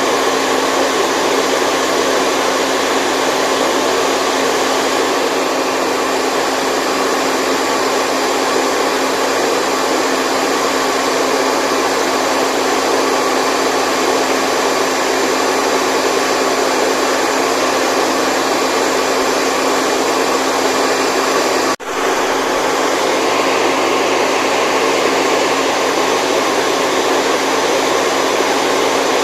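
Steady, continuous white noise for baby sleep: an even, loud hiss with a faint steady hum running through it. It drops out for an instant about two-thirds of the way through, then carries on unchanged.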